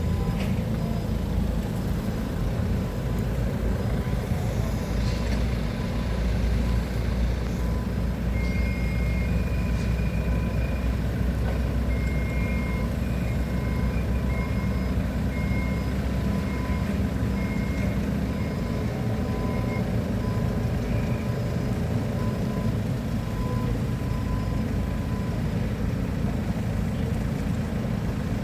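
Heavy-equipment engine running steadily, with an intermittent high beeping alarm of the kind sounded while reversing or travelling, heard through the middle of the stretch.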